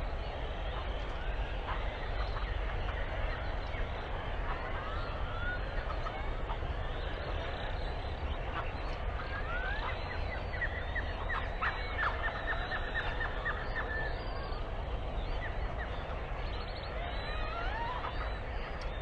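A large flock of birds calling all at once: a dense, continuous chorus of chirps, squeaks and whistles. About halfway through there is a run of rapidly repeated notes. A low steady rumble runs underneath.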